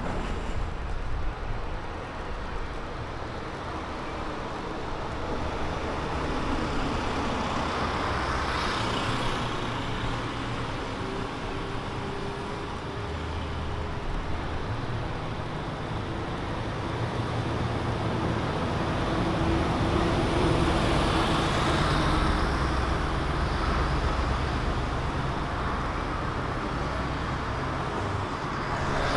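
Road traffic on a city street: steady rumble of vehicles passing, swelling as one goes by about a quarter of the way in and again, louder and with an engine hum, about two thirds of the way in.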